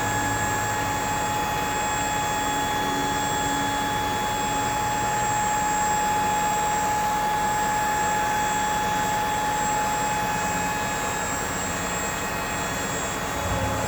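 Ford F-550 Super Duty dump truck running steadily, with a low hum and a steady high-pitched whine over it.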